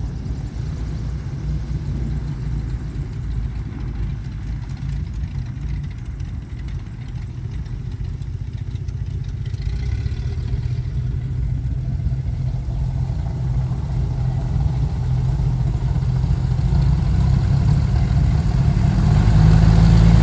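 Twin piston engines of a Piper PA-31-350 Chieftain running steadily, growing louder over the last few seconds with a slight rise in pitch near the end.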